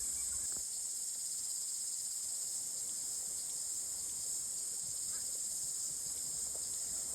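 A steady, high-pitched insect chorus, the continuous shrill drone of many insects.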